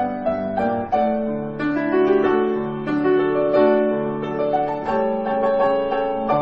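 Solo piano music: a melody of struck notes over sustained chords.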